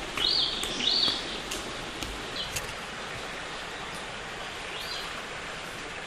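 Forest ambience: a small bird giving short chirps that rise and fall, three in quick succession in the first second and then two more spaced out, over a steady rushing noise like running water.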